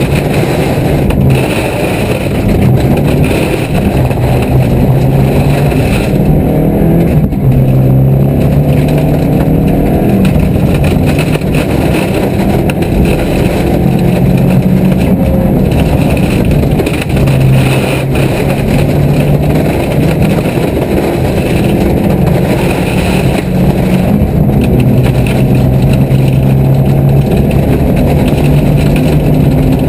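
Car engine heard from inside the cabin, pulling through the revs and easing off again as the car is driven hard, its pitch climbing and dropping in steps, over steady road noise.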